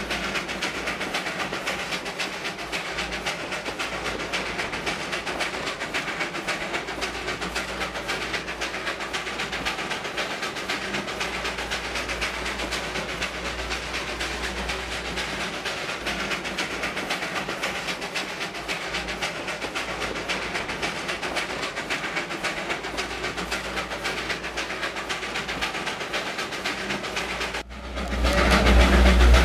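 Darjeeling Himalayan Railway narrow-gauge train running, heard from inside a passenger coach: a steady rattle and clatter of the carriage on the rails. Near the end it cuts to a louder stretch with a heavy low rumble.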